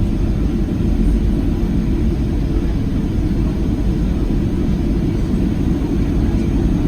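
Steady low rumble of a Boeing 737-700's CFM56-7B jet engines and airflow heard inside the passenger cabin.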